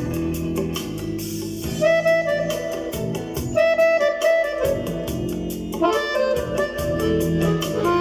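Instrumental music from a MIDI accordion: a lead voice in a saxophone- or clarinet-like sound plays held melody notes over a steady drum beat and backing chords.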